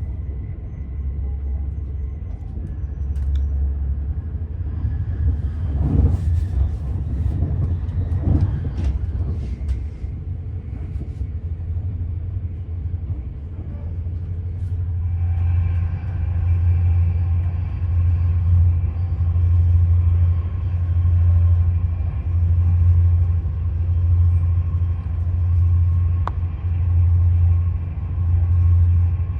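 Passenger train running, heard from inside the carriage: a steady low rumble that, from about halfway through, swells and fades in a regular rhythm about once a second.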